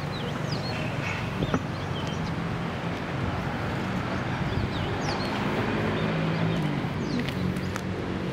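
Birds chirping in short, high calls scattered throughout, over a steady low background hum of the surrounding city.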